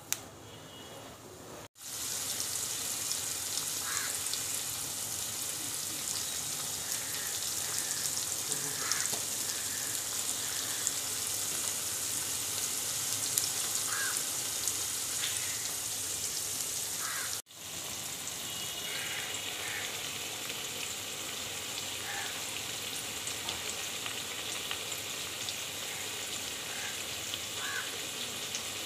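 Sliced onions and chopped tomatoes frying in hot oil in a pot: a steady sizzling crackle. It is quieter for the first second or two, as whole spices go into the oil, and drops out for an instant twice.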